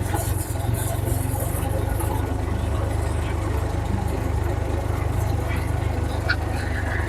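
Engine of a small park tourist train running steadily with a low rumble as the train rolls along its track.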